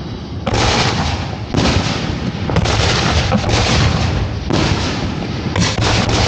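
Fireworks display shells going off in quick succession, about one every second, each sharp boom trailing into a long crackle and rumble.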